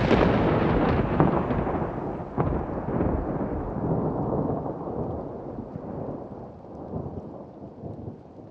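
Thunder rolling after a clap, with a couple of sharper cracks in the first few seconds, then a long rumble that slowly dies away.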